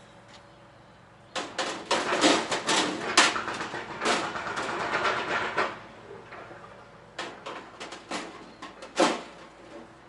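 Clattering and knocking of parts being handled and fitted while mounting a diesel heater on its plate. A busy run of knocks lasts about four seconds, then a few single knocks follow near the end.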